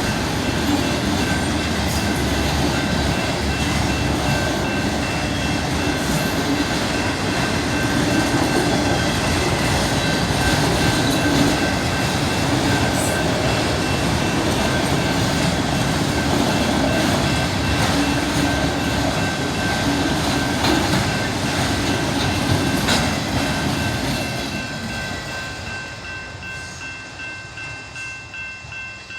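CP train rolling past a road crossing with steady rail and wheel noise, fading away about 24 seconds in. Steady ringing tones run under it and pulse about twice a second once the train has gone, typical of a crossing bell.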